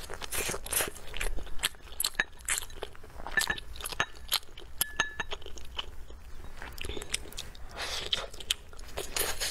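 A person biting and chewing crisp food close to the microphone: a quick series of crunches that keeps coming in clusters.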